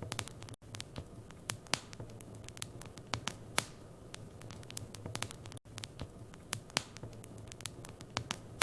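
Wood fire burning in a fireplace, crackling with irregular sharp pops over a low steady hum and hiss. The sound cuts out for an instant twice.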